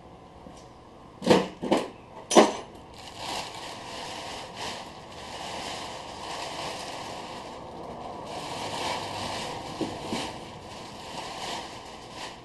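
Three sharp knocks in quick succession about a second in, then several seconds of rough noise that rises and falls unevenly, with another faint knock near the end.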